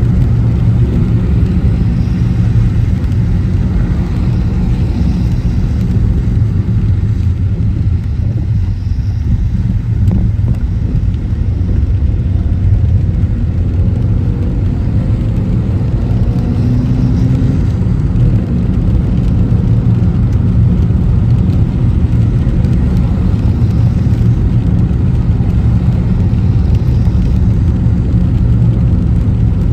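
A car driving on city streets: a steady low rumble of engine and road noise. Faint pitch glides come in briefly about halfway through.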